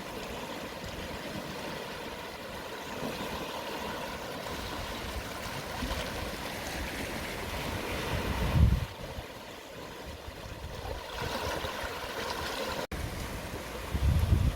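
Gentle sea waves at low tide washing in and draining back over the shore, a steady wash that swells and eases. Two short low rumbles, about eight seconds in and near the end, sound like wind buffeting the microphone.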